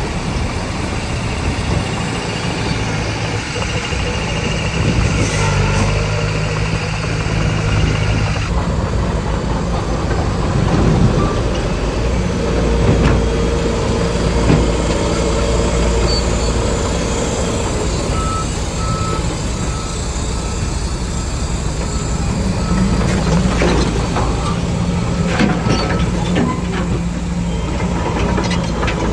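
Diesel engines of a bulldozer and a dump truck working steadily, with a reversing alarm giving a run of evenly spaced beeps in the second half.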